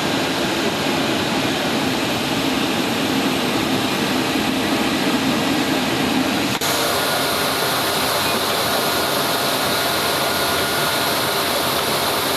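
Steady jet noise of a C-17 Globemaster III, a constant loud rush with no change in pitch. About six and a half seconds in there is a brief dip, after which the noise carries on a little brighter and thinner.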